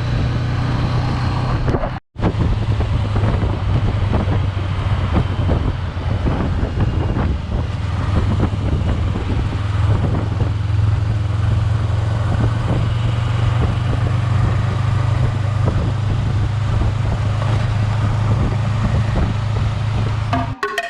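Car driving on the road: a steady low engine drone under tyre and road noise. The sound drops out completely for an instant about two seconds in, then resumes unchanged.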